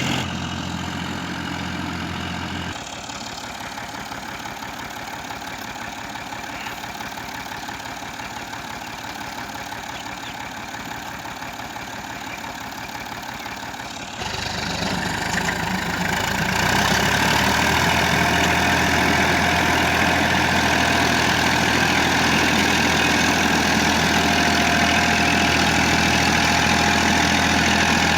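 Massey Ferguson tractor's diesel engine running steadily. It drops to a quieter, lower run about three seconds in, then picks up again around fourteen seconds and settles into a louder, steadier run from about sixteen seconds.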